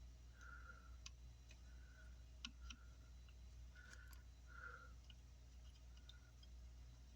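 Near silence while soldering on an amplifier's circuit board: faint scattered ticks and clicks, with a few short, soft hisses.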